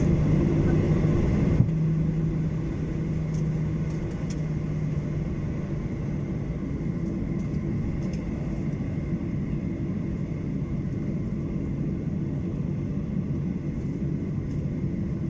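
Cabin noise of a Boeing 737-800 on the ground before takeoff: a steady low rumble of the CFM56 engines at low power, with two steady hums. A single knock comes about a second and a half in, and the noise eases slightly after it.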